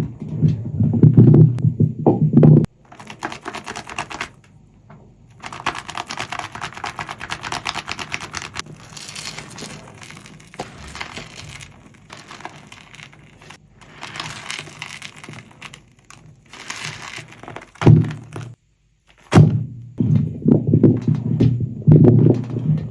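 Wet, soapy sponge being squeezed and worked in foam: irregular low squelching squishes at the start and again near the end. In between is a quieter stretch of fine, fast crackling and fizzing from the foam.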